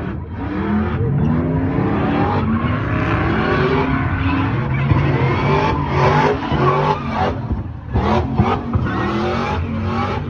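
Several car engines running and revving, their pitches rising and falling and overlapping one another.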